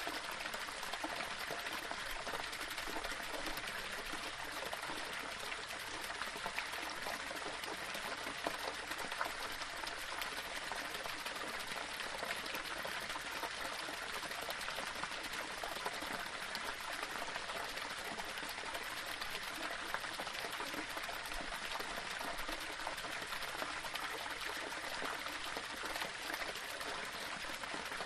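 Small waterfall splashing and trickling over stones: a steady rush of falling and running water with fine splashes throughout.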